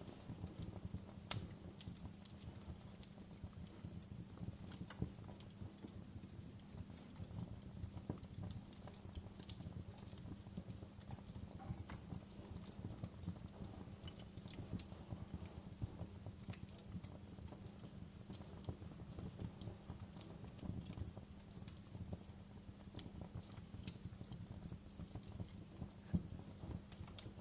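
Wood fire crackling in a fireplace: scattered sharp pops and snaps over a low steady rumble.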